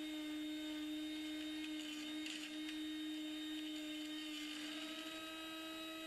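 Small electric motor running with a steady hum and overtones; its pitch shifts slightly about four and a half seconds in. Faint light ticks come around two seconds in.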